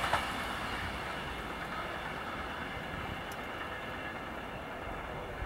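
Danish IC3 diesel multiple unit receding down the line after passing, its running noise fading over the first second and then settling to a faint, steady rumble. A short click comes just at the start.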